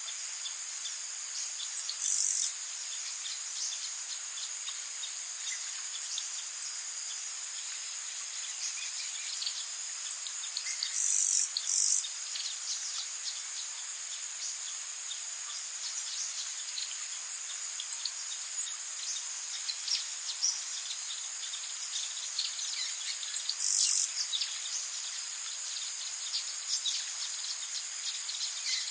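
Tropical rainforest ambience: a steady, high-pitched chorus of insects, broken by short, loud, high chirps about 2 seconds in, twice around 11 to 12 seconds, and once near the end.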